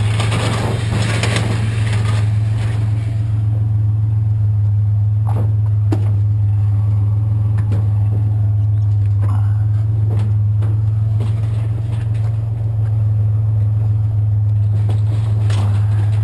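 Pickup truck engine idling steadily with a constant low hum, with a few scattered knocks and clinks as scrap is handled.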